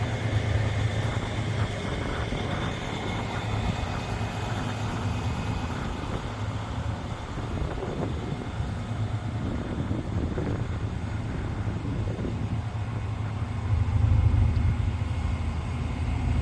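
Volvo D13 turbo-compound diesel engine of a heavy truck idling, a steady low rumble that gets louder near the end.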